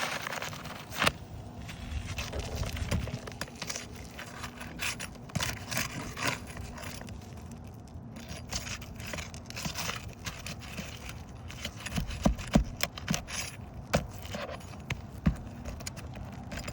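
Scraping and rustling with scattered sharp clicks and knocks, from hands and tools working on asphalt roof shingles.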